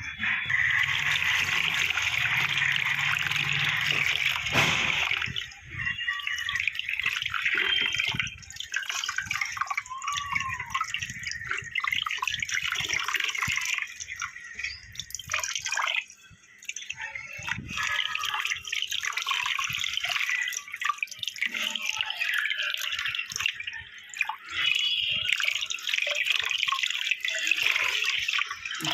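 Water running and splashing irregularly, in a sweet potato harvest from wet, soaked pot soil.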